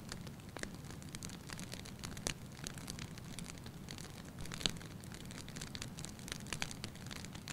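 Wood fire crackling in a fireplace: a low, steady rush of flames with irregular sharp pops and snaps, the loudest about two and a half and four and a half seconds in.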